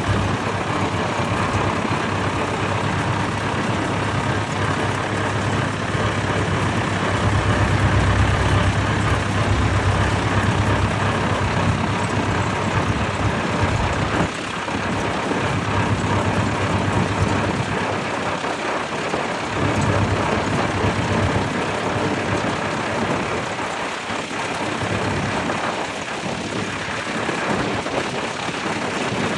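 Vintage tractor engines running, with a steady low hum that drops away about halfway through and comes and goes after that.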